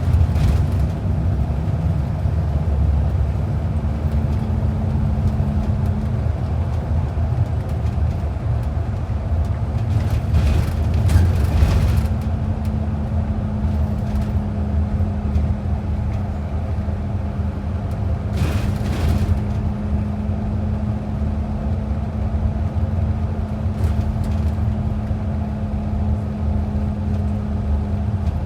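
Transit bus heard from inside while under way: a steady engine and road rumble with a constant low hum from the drivetrain. Brief swells of louder noise come about ten seconds in and again about two-thirds of the way through.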